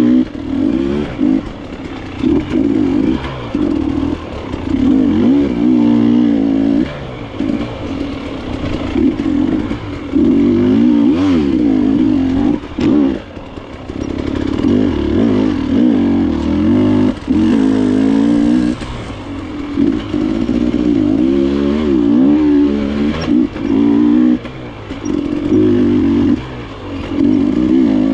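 KTM enduro motorcycle engine heard from on board, revving up and falling back again and again as the throttle is worked, with occasional brief drops and clattering knocks.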